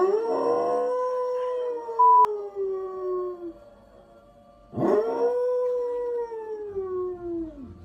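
A dog howling: two long howls, each lasting about three seconds, rising and then slowly sliding down in pitch, the second starting about five seconds in. A short, loud beep sounds about two seconds in, during the first howl.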